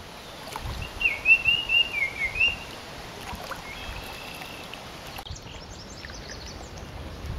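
A songbird singing a quick warbled phrase about a second in, then a fainter whistled phrase, over a low outdoor rumble; after a cut, faint short high chirps from other birds.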